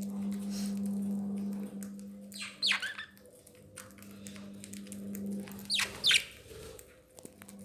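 Pet budgerigars calling: two short, sharp squawks about three seconds apart, over a steady low hum.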